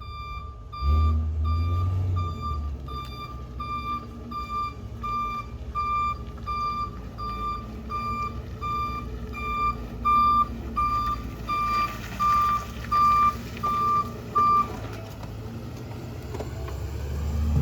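Garbage truck's reversing alarm beeping at an even pace, about three beeps every two seconds, over the truck's engine running low; the beeping stops after about fourteen seconds. The engine revs up briefly about a second in.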